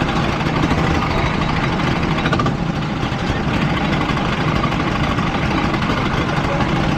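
Go-kart engine running steadily while the kart is driven, heard from the driver's seat, with a dense rumble of engine, chassis and air noise and no letup.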